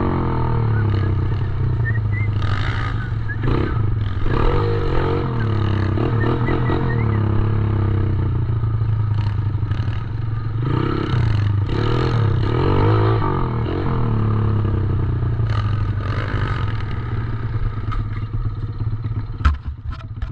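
Small 110cc dirt bike engine running and revving up and down repeatedly, with a sharp click near the end.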